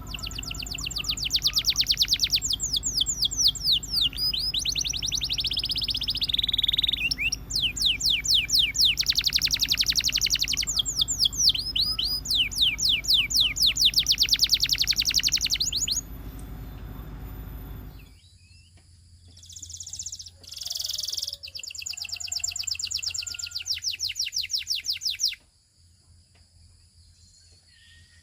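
Russian canary singing long tours of rapid, evenly repeated trills, broken by short pauses. A steady low hum lies under the song and cuts off about two-thirds of the way through; after a brief lull the canary sings another trill run, then falls quiet near the end.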